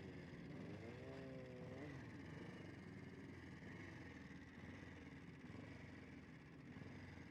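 Faint motorcycle engine heard from an onboard camera on a race track, its pitch rising and falling with the throttle in the first two seconds, then running more steadily.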